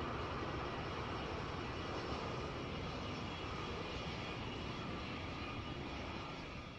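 Jet airliner engines running, a steady even noise with faint high whining tones, fading out near the end.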